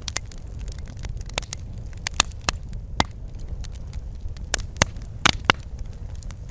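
Wood fire in a fireplace crackling and popping: a steady low rumble of flames under irregular sharp pops, a few louder snaps between about two and five and a half seconds in.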